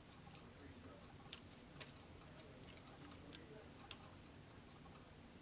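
Near silence: room tone with a few faint, irregularly spaced clicks and taps, from handling paper cutouts on a work table.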